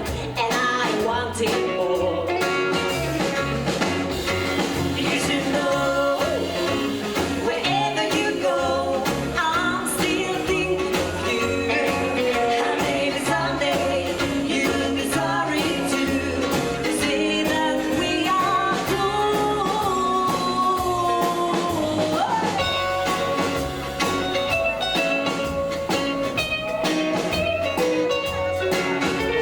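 Live rockabilly band playing a song: a singer over guitar, bass and drums, with a bass line stepping steadily from note to note.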